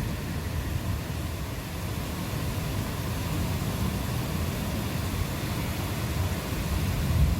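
Thunderstorm: steady rain hiss under a continuous low rumble of thunder, which swells briefly near the end.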